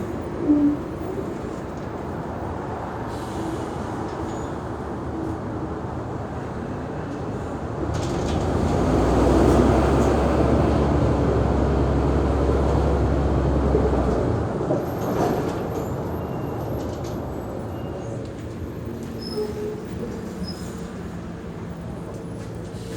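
Mercedes-Benz O345G articulated city bus's diesel engine running steadily, then pulling harder with a deep drone from about eight seconds in, and easing off after about fourteen seconds.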